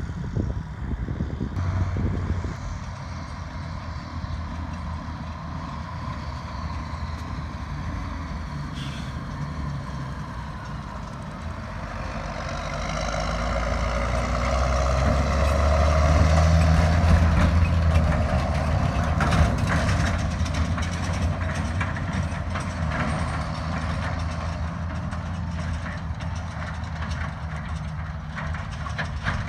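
Heavy diesel farm machinery running, growing louder to a peak about halfway through and then fading, as a machine passes close by.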